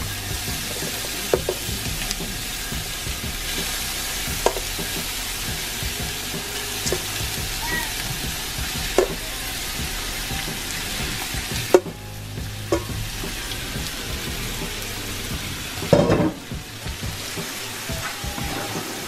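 Ground beef sizzling in a hot frying pan. Occasional sharp knocks punctuate the sizzle, about half a dozen, the loudest about sixteen seconds in.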